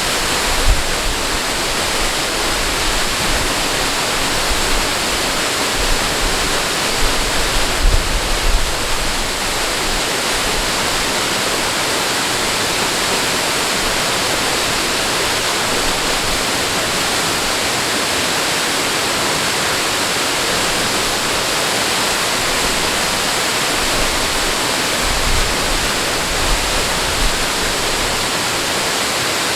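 Rushing water, a steady dense sound like a waterfall or fast stream, with a few brief low rumbles about a second in, around eight seconds in and near the end.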